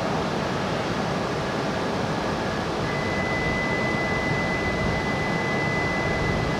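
E6-series Shinkansen train moving off slowly from the platform: a steady whir and hiss of its equipment under the station roof, with a steady high-pitched tone joining about three seconds in.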